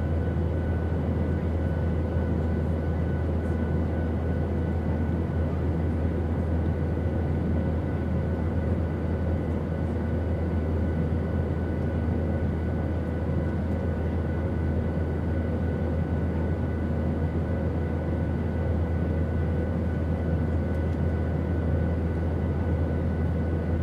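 Steady airplane drone of engine and airflow noise, deep and even and unchanging, with a few faint steady tones above it.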